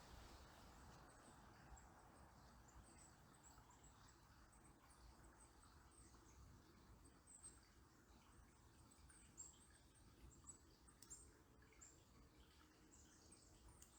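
Faint, very high, thin bird calls, short chirps repeated every second or so, over a low, steady murmur of river water.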